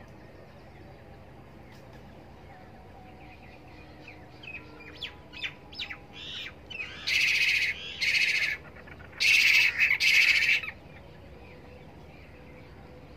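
Birds chirping in short notes, then four loud, harsh calls about half a second each, the last two back to back.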